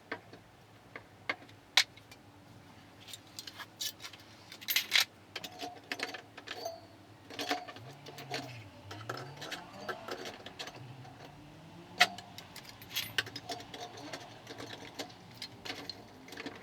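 Scattered sharp clicks and knocks of hand tools on metal, irregularly spaced. About halfway through, a faint low hum rises and falls in pitch for a few seconds.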